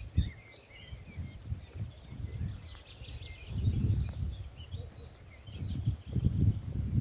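Small songbirds chirping and twittering in short, scattered calls, over uneven low rumbling swells of wind noise on the microphone.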